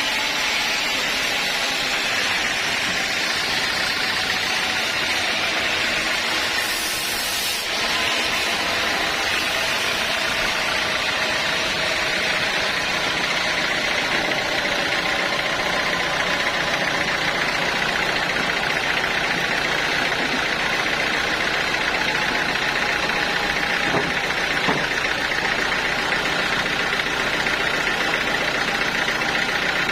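Sawmill machinery running steadily, with a brief noisy burst about seven seconds in.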